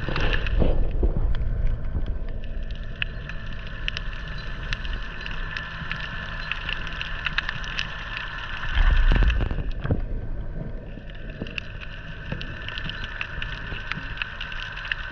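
A motor running steadily, with a steady whine over a low rumble, and wind buffeting the microphone in gusts at the start and again about nine seconds in.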